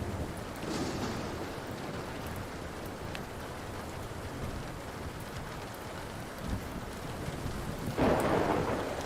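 Steady rain with thunder rumbling, and a sudden louder thunderclap about eight seconds in. A few faint pops of a crackling wood fire sit over the rain.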